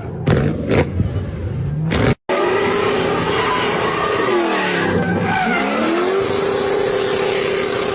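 A drifting car's engine revving hard, with a few sharp pops in the first two seconds. After an abrupt cut, an engine is held at steady high revs over the hiss of spinning, sliding tyres; the revs dip and climb back about halfway through.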